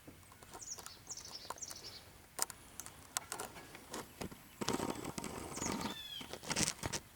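Small songbird calling in short runs of high notes that fall in pitch, a couple of runs early on and one more near the end, over faint outdoor ambience with scattered clicks and scratchy noise in the last few seconds.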